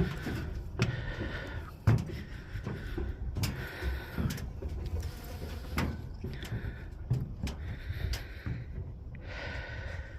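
Footsteps thudding and knocking on stair steps during a climb, with one sharper knock about two seconds in, alongside repeated hard breaths, roughly one every second and a half.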